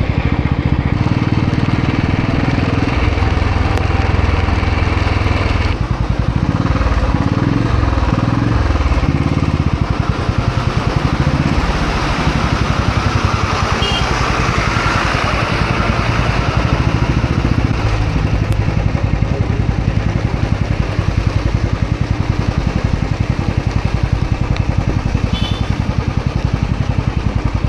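Motorcycle engine running while riding, with a steady rush of noise over it; the engine pitch shifts several times about a quarter of the way in.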